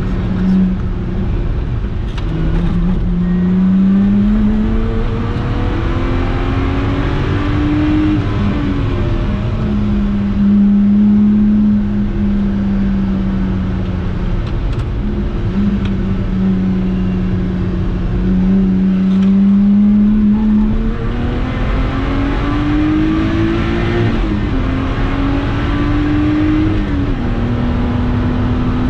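Lotus Exige 350 Sport's supercharged 3.5-litre V6, heard from inside the cabin under hard driving. The revs climb and drop suddenly at upshifts several times, and hold fairly steady through a long middle stretch, over heavy road and wind noise.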